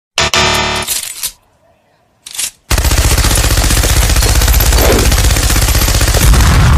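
A short musical sting, then about a third of the way in a loud, continuous rapid rattling sound effect begins and runs on.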